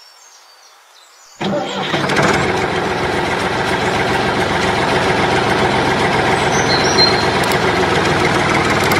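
An engine-like running sound cuts in abruptly about one and a half seconds in, after a quiet start, then runs steadily.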